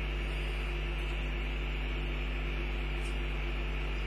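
Steady low electrical hum with a constant hiss over it, with no distinct event.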